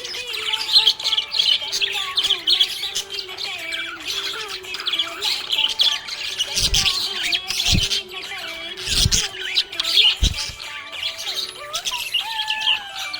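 Budgerigar chattering: a dense, continuous warble of quick high chirps and squawks. A few short low thumps fall in the middle.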